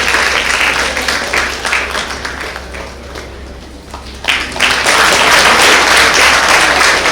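Audience applauding. The clapping thins out about three seconds in, then swells back suddenly just after four seconds.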